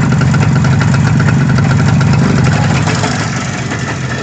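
IZh Jupiter-5 motorcycle's two-cylinder two-stroke engine running steadily at low revs, easing off slightly about three seconds in.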